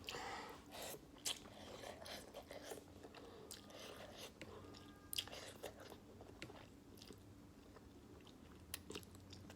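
A person chewing beef ramen noodles close to the microphone, with wet mouth clicks scattered throughout.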